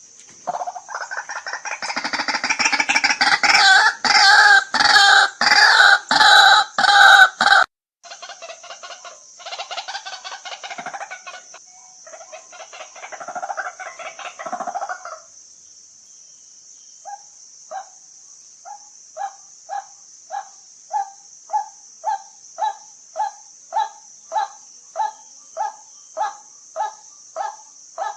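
White-breasted waterhen calling. A loud run of fast, harsh repeated calls breaks off suddenly about seven seconds in, then softer calling follows. From about halfway a steady series of short single notes comes a little over once a second, growing louder.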